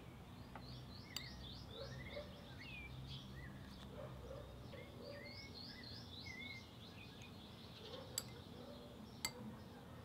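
Several birds chirping, with quick runs of high chirps and some lower calls. There is a sharp click about a second in and two more near the end.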